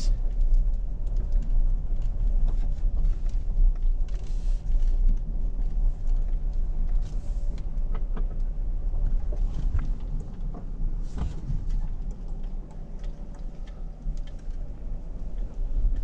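Vehicle driving slowly: a steady low rumble with a faint hum and scattered clicks.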